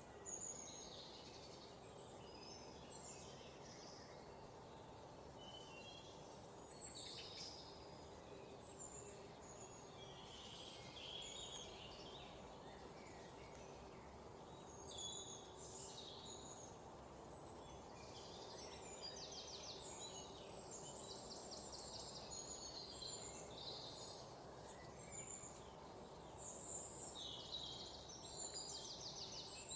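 Several songbirds chirping and calling, short high notes scattered throughout, with bursts of rapid trills in the second half, over a steady low background hum.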